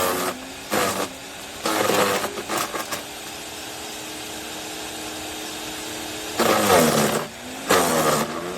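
PROYAMA 15-amp electric wood chipper's motor and blades running and shredding. It comes in loud bursts where the pitch dips and recovers, with a quieter, steadier stretch in the middle.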